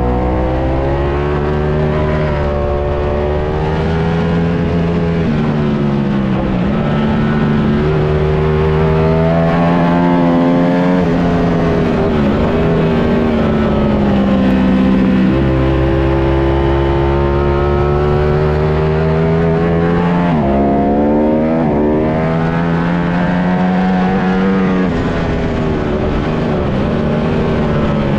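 Ducati Panigale V4S's 1,103 cc V4 engine at racing speed on track. It revs up and drops sharply at each gear change, and its pitch falls with quick rises in between when slowing for corners.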